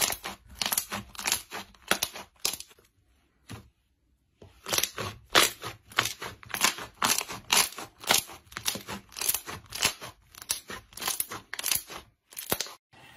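Slime being squeezed and pressed by hand, a crunchy crackling with each squeeze, about two to three a second, pausing briefly about three seconds in.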